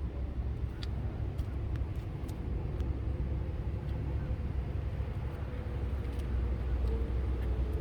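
Mercedes-Benz 500E's 5.0-litre V8 running at idle, a steady low rumble that grows a little louder near the end, with a few faint clicks.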